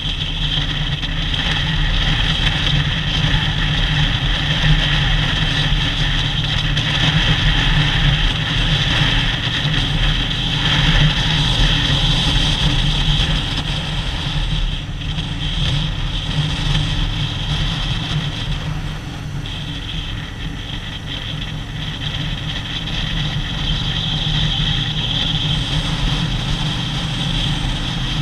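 Harley-Davidson V-twin motorcycle engine running steadily while riding, its level rising and falling a little.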